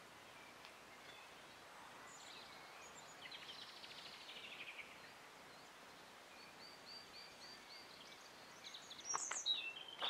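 Small birds chirping over faint outdoor background noise: a quick descending trill about three seconds in, a run of short repeated notes around seven seconds, and louder calls with a few sharp clicks near the end.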